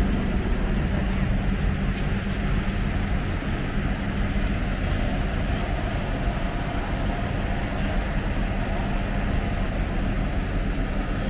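Steady low rumble of city street traffic, with vehicle engines idling and a constant low engine hum.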